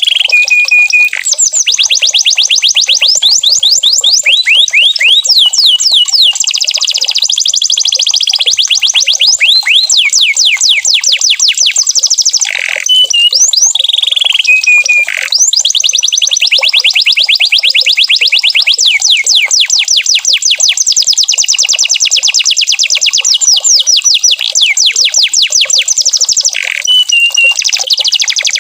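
Domestic canary singing a loud, continuous song of rolling trills: runs of rapid, high sweeping whistles repeated many times a second, with a few short held notes and two brief breaks about twelve and fifteen seconds in.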